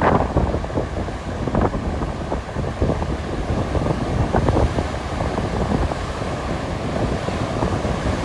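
Strong wind buffeting the microphone in irregular gusts, with the rush of sea surf beneath it.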